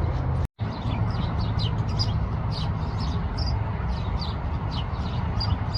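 Birds chirping: many short, high chirps, two or three a second, over a steady low background hum. The sound cuts out briefly about half a second in.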